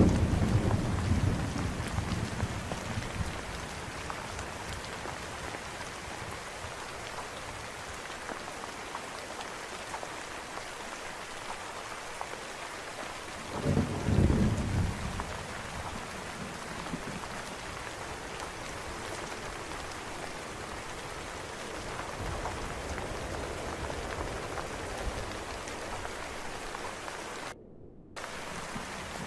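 Steady rain falling, with thunder: a low rumble fading away over the first few seconds and a second, shorter rumble about halfway through. Near the end the rain sound briefly cuts out for about half a second, like an edit splice.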